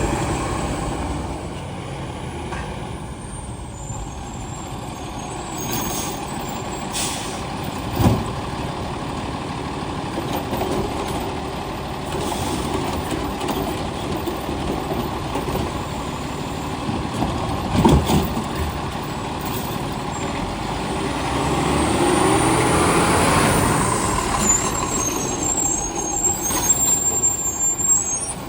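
Heil STARR garbage truck running, with air-brake hisses and two sharp knocks about a third and two thirds of the way through. Its engine runs louder for a few seconds near the end.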